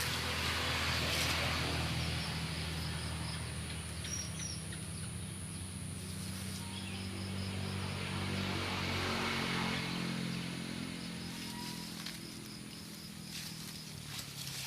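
Rural outdoor background: a steady low engine-like hum, a constant high insect drone, and a few faint bird chirps. There are two swells of rustling noise, about a second in and again around nine to ten seconds.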